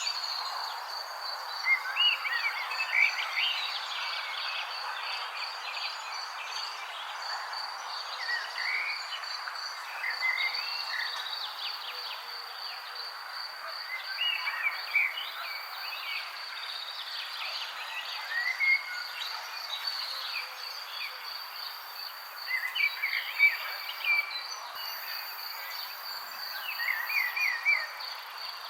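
Birds chirping in short clusters every few seconds over an insect's steady, high, pulsing trill and a soft outdoor hiss.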